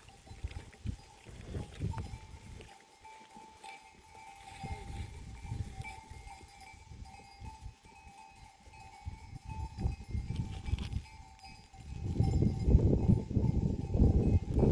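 Livestock bell ringing with a steady tone, over scattered knocks and clatter. A louder low rumble starts about twelve seconds in.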